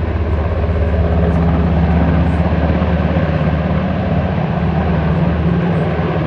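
Helicopter rotor chop, steady and loud, rising slightly in the first second; the helicopter is working the lake for water.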